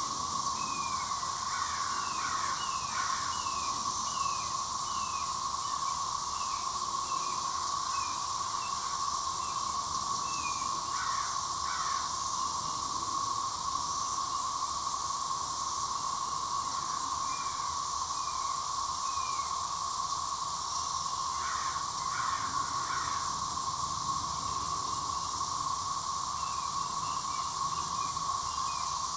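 Chorus of cicadas: a steady drone with a high hiss above it. A bird calls over the chorus in runs of short, downward-sliding chirps, about two a second for the first several seconds and again in shorter bursts later.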